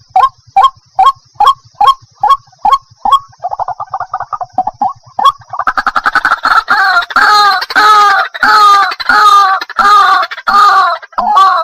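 Water hen calling: short notes evenly repeated a little over two a second, then a quick chattering trill about three seconds in. From about five seconds in come louder, harsher calls that overlap, as if several birds are calling together.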